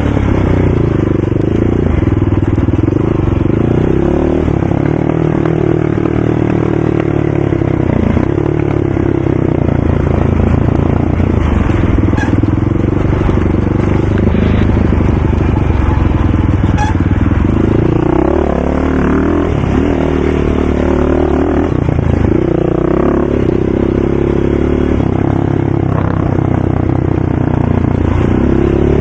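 ATV engine running loud, its pitch rising and falling again and again as the throttle is opened and let off while riding.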